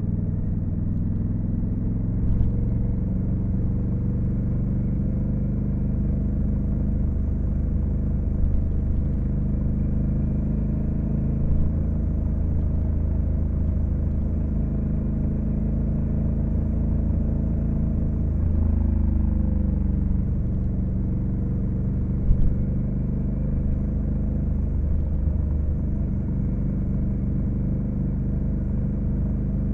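Honda Africa Twin CRF1100L's 1084 cc parallel-twin engine running at a steady cruise under way. About two-thirds through, its pitch dips as the bike slows or shifts, then it settles steady again; a few short knocks come through along the way.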